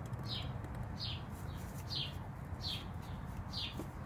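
A bird chirping: a string of short, high chirps that each fall in pitch and come about twice a second, over a steady low hum.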